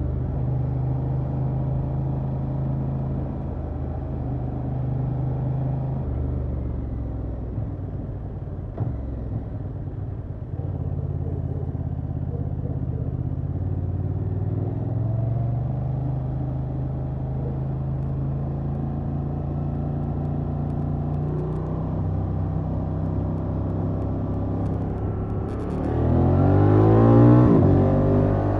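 Honda XL750 Transalp's 755 cc parallel-twin engine through its stock exhaust, running steadily under way with small changes in engine speed. Near the end it revs up under acceleration, louder and rising in pitch, then falls back abruptly.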